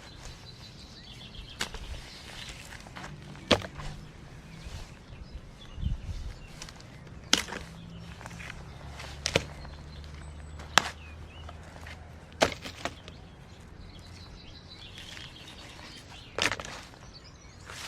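A few sharp, separate knocks and clicks a second or more apart, like gear being handled and set down, with birds chirping faintly in the background.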